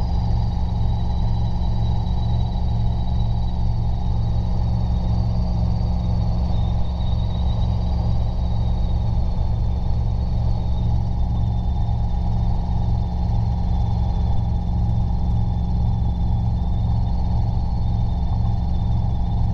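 Robinson R22 helicopter in flight, heard from the cockpit: a steady engine and rotor drone with an even low pulsing beat and a faint high steady whine above it.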